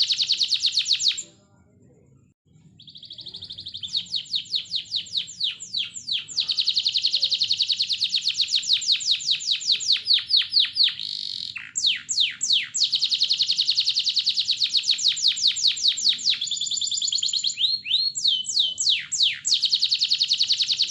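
Domestic canary singing long phrases of fast, evenly repeated trilled notes, with a short break about a second in. This is a lure song played to prompt other canaries to sing.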